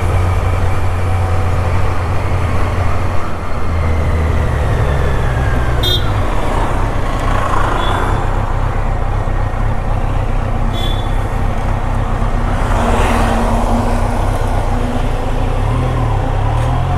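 Kawasaki Z-series motorcycle engine running under way, a steady low engine note over road and wind noise. Its pitch shifts about four seconds in and wavers again near the end.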